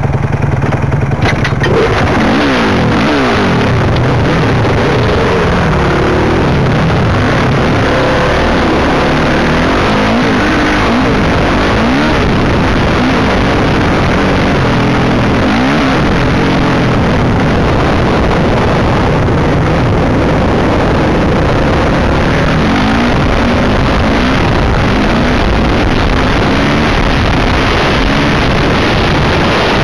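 Honda CRF450R single-cylinder four-stroke dirt bike engine being ridden, its pitch rising and falling over and over as the throttle is opened and closed through the gears, heard loud from a helmet-mounted camera.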